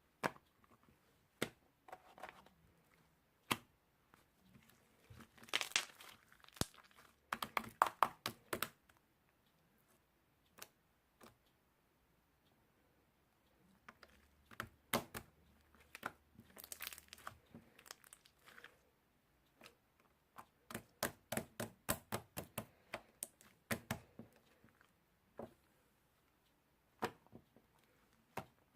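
Crinkling, crackling handling noise with scattered sharp clicks, coming in short runs of quick clicks twice.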